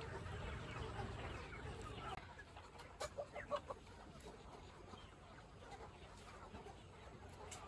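Chickens clucking faintly, with a short run of clucks about three seconds in and quieter after.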